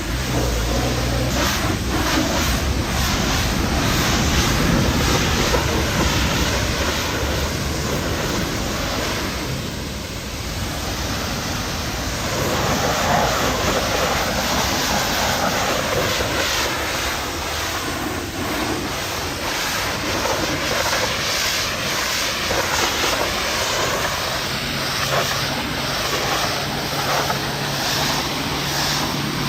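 Pressure washer spraying water, a steady loud hiss, with the machine's low motor hum at the start and again from about 25 seconds in.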